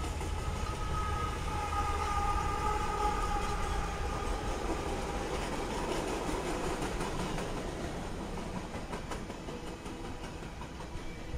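Freight train passing close by: a steady rumble of rolling cars, with a pair of mid-train diesel locomotives going by about halfway through. A held high two-note tone fades out about five seconds in, and wheels click over the rail joints toward the end.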